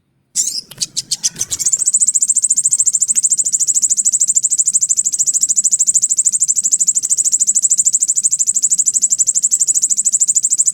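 Sogon bird call played as a lure recording: a very fast, high-pitched buzzing trill of rapid even pulses. It starts with a few stuttering notes just after a brief silent gap, then runs on steadily from about two seconds in.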